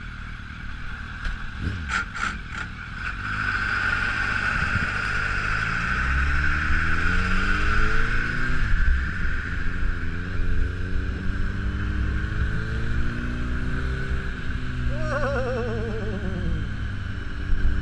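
Car engine accelerating, its pitch climbing and dropping back several times as it shifts through the gears, over a steady high whine.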